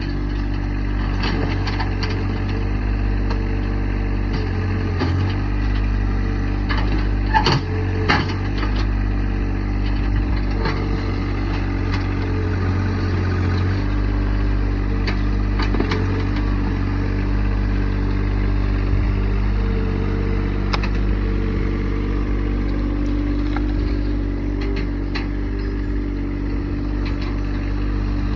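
Tractor engine running steadily under work, with scattered short knocks and two sharp clanks about seven to eight seconds in.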